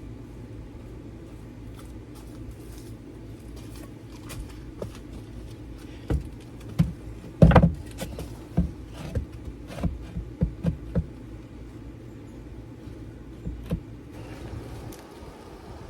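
A series of knocks and thumps, the loudest about halfway through, over a steady low hum that cuts off near the end.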